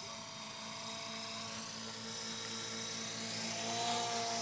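Radio-controlled model helicopter's motor and rotor giving a steady buzzing whine that gradually gets louder, as the helicopter is brought in to land.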